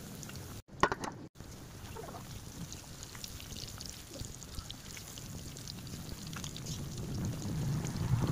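Breaded chicken cordon bleu frying in hot oil, a steady sizzle with fine crackling. There is a single sharp knock about a second in.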